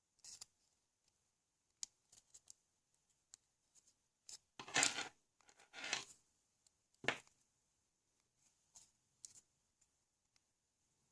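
Small plastic LEGO XL motor parts being handled at close range: scattered light clicks and taps, with a few louder scraping rustles about halfway through.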